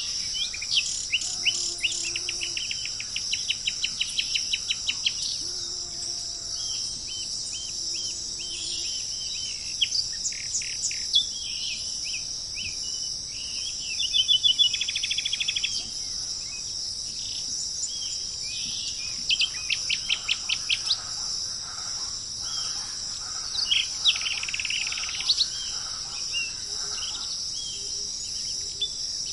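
Several wild birds calling and singing over a steady, high-pitched insect chorus. The birds give runs of rapid repeated notes, the longest near the start, and a fast trill about halfway through.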